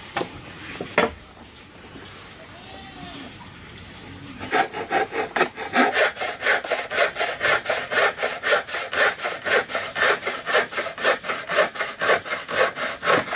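Saw cutting through wood in quick, even back-and-forth strokes, about four a second, starting about four and a half seconds in. A couple of knocks come in the first second.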